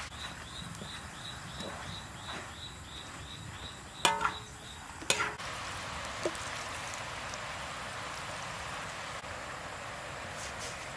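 Food frying in a pan with a steady sizzle, and two sharp clinks of a utensil against the pan about four and five seconds in, the first ringing briefly. A faint insect chirps about three times a second through the first half.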